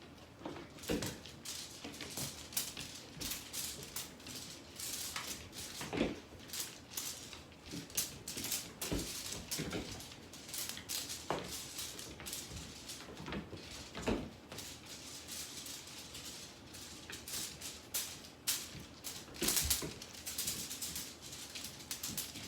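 Irregular rustling, scratching and light taps, with a few louder knocks, as a cat is played with.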